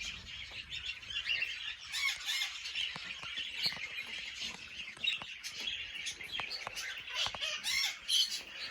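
Many aviary birds chirping and calling together, a dense mix of short chirps with a few louder calls standing out.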